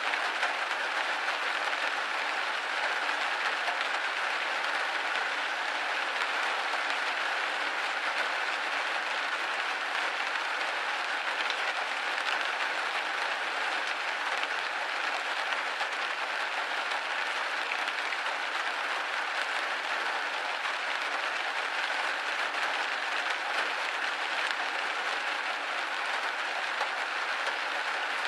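Steady rain pattering on a window pane, a dense even hiss of drops with no letup.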